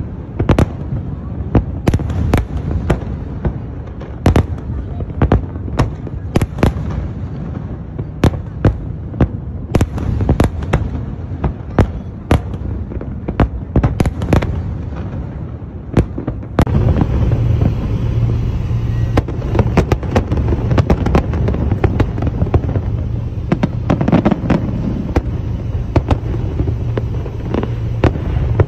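Aerial fireworks bursting in quick succession: sharp bangs, often one or two a second, over a constant low rumble. About two-thirds of the way through, the background noise changes abruptly and the bangs become fewer and softer.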